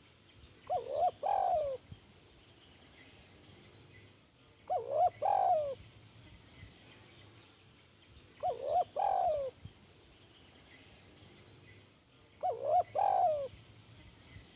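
Spotted dove (tekukur) cooing: four calls about four seconds apart, each a short coo followed by a longer coo that falls in pitch.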